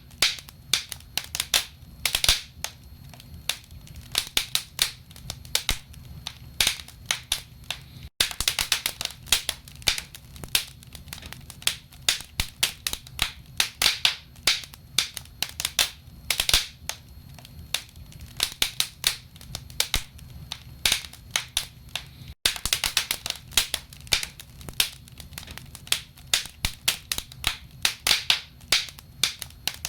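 Wood fire crackling in a fireplace: many sharp, irregular pops and snaps from burning logs over a low rumble of flame. The sound cuts out for an instant twice.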